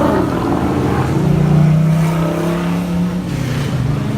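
Car engine pulling away under throttle. The note holds steady for a couple of seconds, then drops in pitch near the end.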